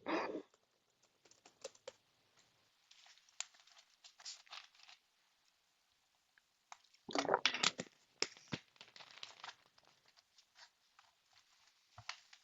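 Faint scattered clicks and rustling close to the microphone, with a louder rustle about seven seconds in.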